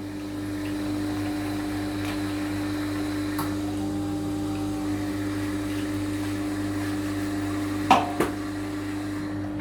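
Carimali coffee machine running its mixing-bowl cleaning cycle: a steady electric motor hum. Two sharp knocks come about 8 seconds in.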